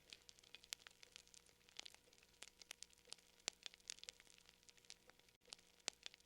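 Fire crackling quietly: many irregular small pops and snaps over a faint steady hiss.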